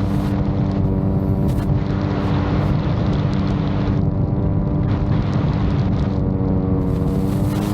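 VTOL drone's propellers running with a steady, unchanging pitched hum, over a rough low rumble.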